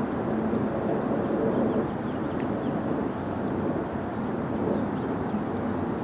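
Garbage truck's engine running steadily, a continuous rumble.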